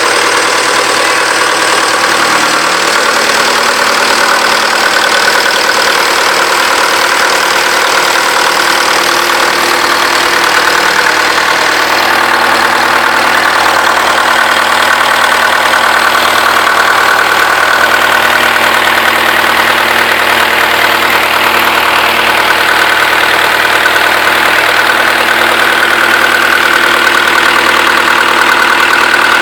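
Perkins L4 four-cylinder four-stroke diesel engine running steadily at a constant speed, loud and close.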